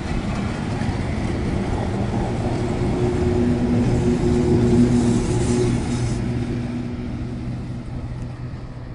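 A train of vintage carriages rolling past on the rails, then an FS E428 electric locomotive going by with a steady low hum. The sound is loudest about halfway through, as the locomotive passes, and fades as it pulls away.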